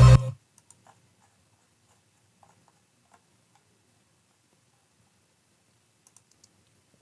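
The playback of a layered sound-design mix, a heavy low hit under rising electronic sweeps, cuts off abruptly just after the start. What follows is near silence broken by a few faint computer mouse and keyboard clicks, a couple of them in quick succession near the end.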